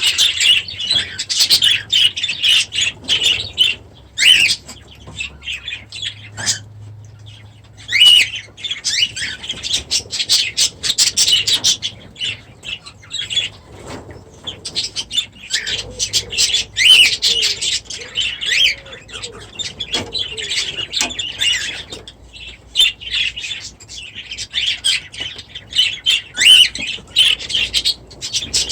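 A flock of budgies and cockatiels calling together in an aviary: a dense, overlapping chatter of chirps and squawks, dropping briefly to a lull about five seconds in.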